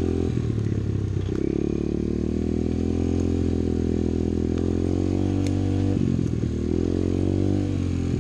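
Apollo pit bike's small single-cylinder four-stroke engine running while riding the trail, its pitch shifting with the throttle, with a few light clicks.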